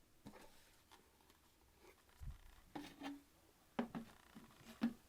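Faint handling noises: a few light clicks and rustles spread over the last three seconds as the vacuum cleaner's filter and plastic parts are handled.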